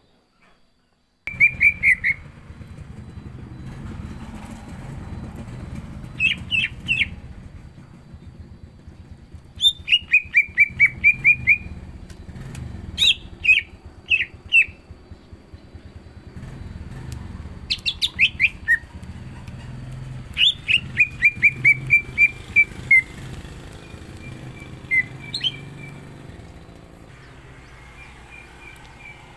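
Cucak ijo (green leafbird) singing loudly, starting about a second in. It sings in repeated bursts of rapid, sharp chirping notes, each run lasting about a second, with short pauses between runs.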